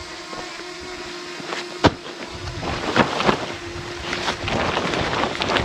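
A steady hum at one pitch, with wind buffeting the microphone from about two seconds in, and a few sharp clicks.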